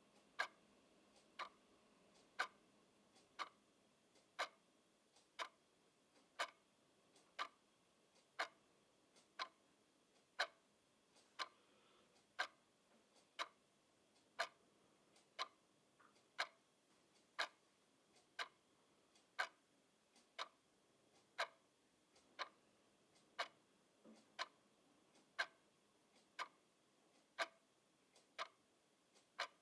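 A clock ticking steadily, one sharp tick about every second, the ticks varying a little in loudness.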